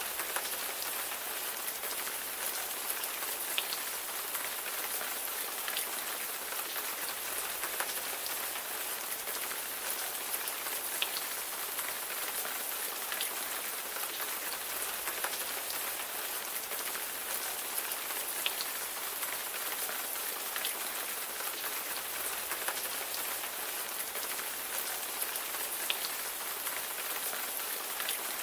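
Steady rain falling on a surface: an even hiss with scattered sharper drop ticks heard now and then.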